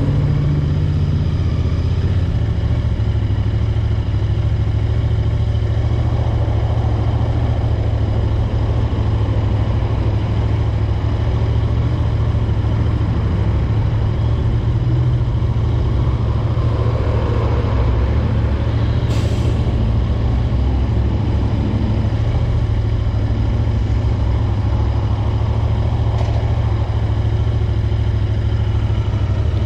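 Royal Enfield Interceptor 650's 648 cc parallel-twin engine and exhaust running steadily under way, with wind and road noise. The engine note shifts slightly about two seconds in.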